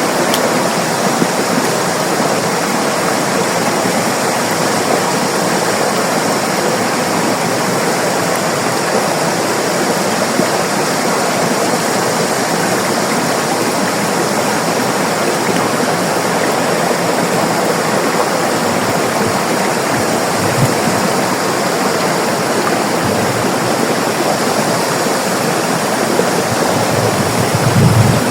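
River water rushing and splashing steadily over rocks, a continuous even roar of flowing water. A brief low thump comes near the end.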